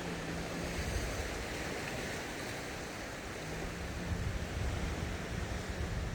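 Sea waves washing onto the shore in a steady surf, with a faint low droning tone underneath that shifts pitch a few times.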